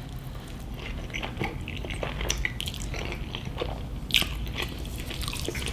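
A person chewing and biting food close to the microphone, with irregular small clicks from the mouth.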